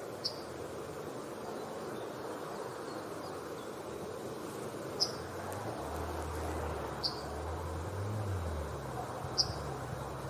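Yellowhammer giving four short, high call notes spaced a few seconds apart, over steady background noise with a low rumble in the second half.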